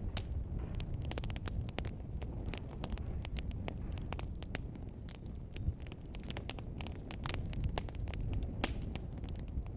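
Wood fire in a fireplace crackling: many sharp pops and snaps, several a second, over a steady low rumble of the flames.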